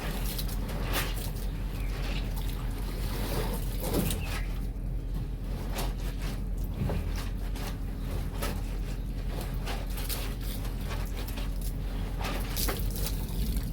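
Water sloshing and splashing with irregular, uneven strokes as bedsheets are washed by hand in a basin of soapy water.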